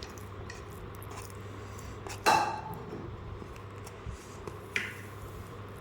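Dishes clinking as a meal is handled: one sharp ringing clink a little over two seconds in, a smaller one near the end, and a few light clicks.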